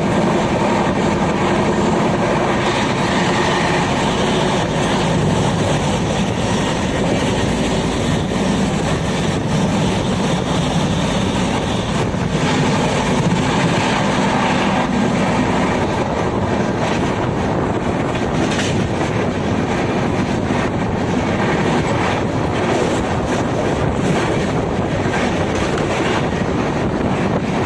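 Passenger train running at speed: a steady, loud rumble of wheels on the rails, with scattered clicks from the track.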